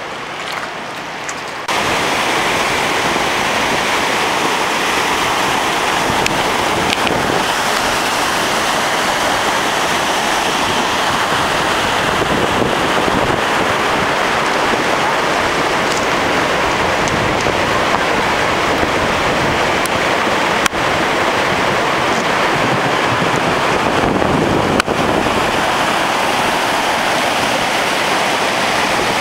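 Loud, steady rush of fast-flowing floodwater, coming in suddenly about two seconds in and running on unbroken.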